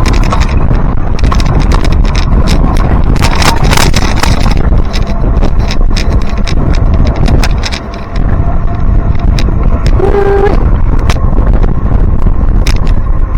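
Wind buffeting the microphone on a moving bicycle, a loud, steady rumble with scattered clicks and rattles, easing briefly about eight seconds in. A short pitched tone sounds about ten seconds in.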